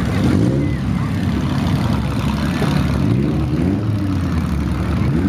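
Several demolition-derby minivan and small-pickup engines running at once, idling, with engines revving up and down now and then.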